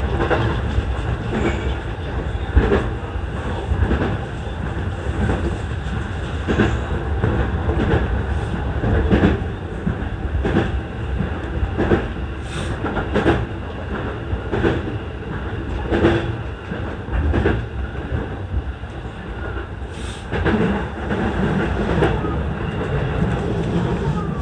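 E233 series electric commuter train running at speed, with a steady rumble and wheels clicking over rail joints about every second and a half.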